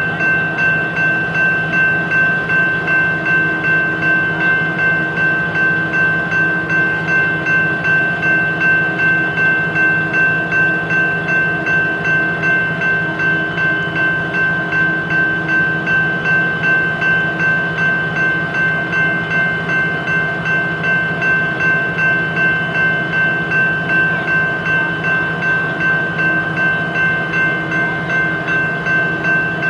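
BNSF coal train running steadily, with a steady high whine over an even beat about twice a second.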